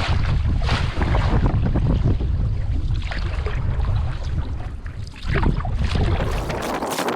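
Wind buffeting the microphone over water splashing against a canoe being paddled through choppy waves. The wind rumble drops away near the end.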